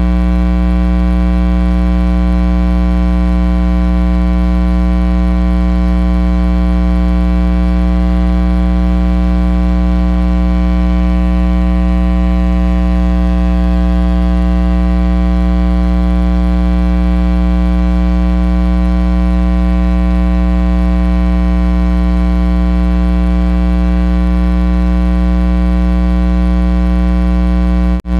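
Loud, steady electrical mains hum with a stack of evenly spaced overtones, cutting out for an instant near the end.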